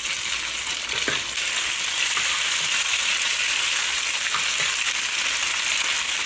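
Thinly sliced marinated pork and chopped garlic sizzling steadily in hot oil in a non-stick wok as they are stir-fried, with a few light scrapes of the spatula against the pan.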